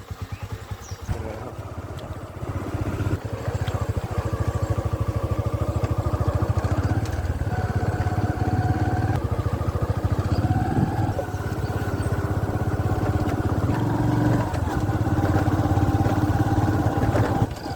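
Motorcycle engine pulling away from idle about a second in, then running at a steady speed.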